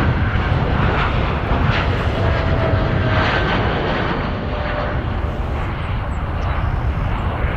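Jet airliner engines close by, a loud, steady rumble with a faint whine over it.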